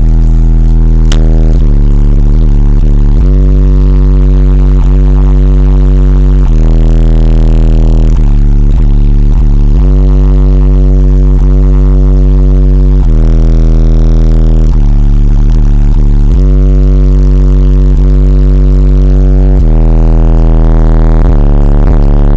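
Car subwoofer in a 95-litre bass box tuned to 35 Hz, driven by a Sinuslive SLA-1500V2 amplifier, playing a line of very loud deep bass notes that change every second or two. It is so loud that the recording clips, adding a buzzing distortion over the bass.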